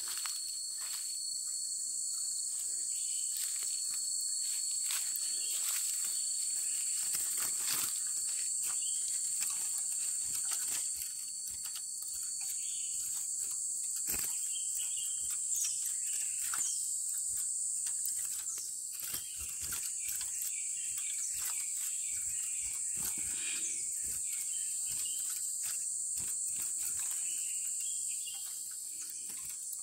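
Steady high-pitched insect chorus, crickets or cicadas, with scattered clicks and a few short high chirps around the middle.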